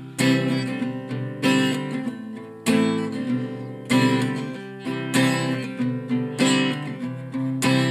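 Acoustic guitar strumming chords with no voice. A strong stroke comes about every second and a quarter, with lighter strums between, and the chords ring on.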